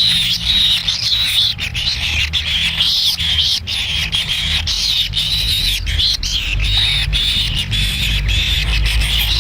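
Kingfisher chicks in the nest begging, a continuous high-pitched wavering buzz, with a low rumble underneath.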